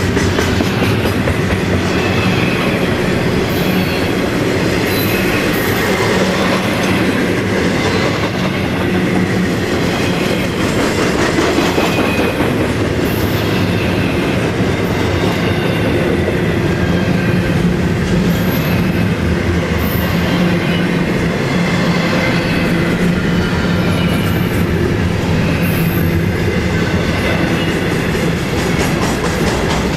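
Freight train cars rolling steadily past, with wheels clacking on the rails and brief high wheel squeaks now and then.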